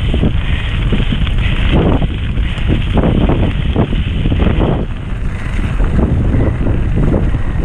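Wind buffeting the microphone of an onboard camera during a fast mountain-bike descent. Irregular knocks and rattles come from the Coluer prototype bike's tyres and frame going over rough ground.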